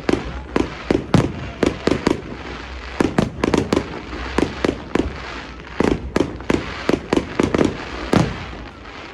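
Fireworks going off in quick succession: an irregular barrage of sharp bangs, several a second, with crackle between them. The last bang comes about a second before the end.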